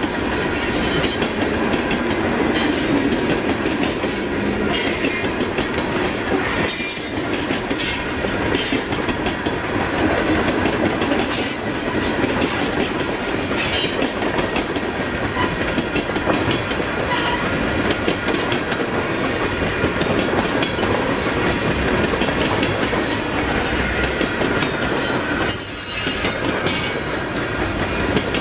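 Freight cars rolling past a grade crossing, their wheels clacking steadily over the rail joints, with some wheel squeal and a few sharp metallic clanks, one about seven seconds in, another past the middle and one near the end.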